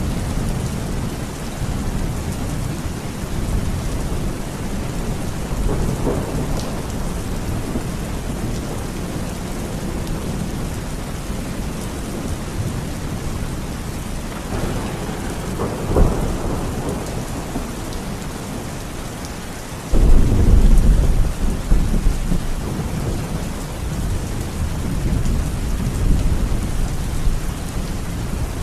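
Steady heavy rain falling during a thunderstorm. Just past halfway there is a sharp crack, and about two-thirds of the way through a loud, low rumble of thunder starts suddenly and rolls on for several seconds.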